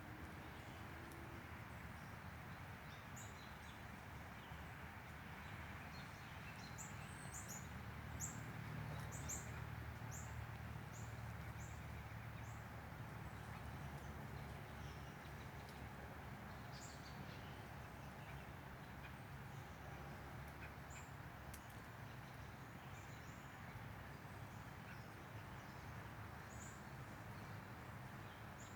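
Small birds chirping, short and high-pitched, over a faint steady wash of outdoor background noise. A quick run of chirps comes about a quarter of the way in, with only scattered ones later.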